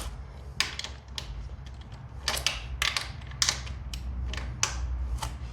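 Hand ratchet wrench clicking in short irregular strokes, a dozen or so sharp clicks, as it works loose a motorcycle's oil drain bolt. A steady low hum runs underneath.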